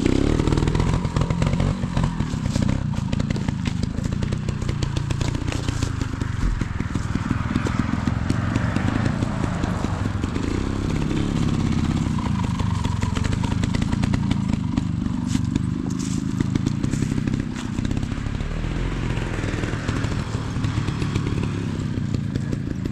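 Beta 200 two-stroke trials motorcycle engine running at low revs, its pitch rising and falling with small throttle changes through slow riding.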